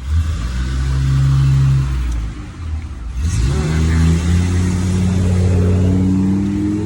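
Motor vehicle engine running loud close by, then accelerating from about three seconds in, its pitch rising steadily as it pulls away.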